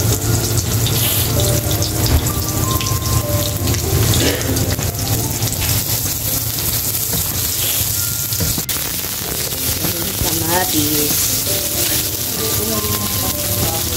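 Garlic and onions sizzling steadily in hot oil in a nonstick wok, with small crackles as they are sautéed and stirred with a plastic spatula.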